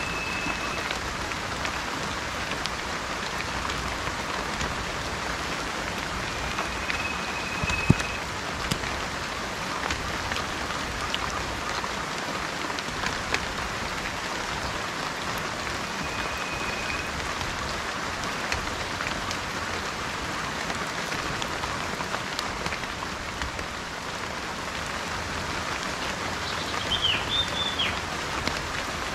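Steady rain falling, with a few short whistled bird notes on one pitch now and then and a brief bird call near the end. A single sharp tap stands out about eight seconds in.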